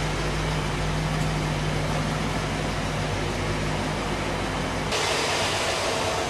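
1962 Cadillac's 390 V8 running on fast idle shortly after a cold start, a steady low drone. About five seconds in the low hum drops away and a steady hissing rush takes over.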